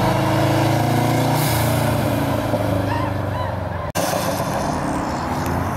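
Car engine running with a steady low exhaust drone. Just before four seconds in, the sound cuts out for an instant and returns as a noisier mix of engine sound.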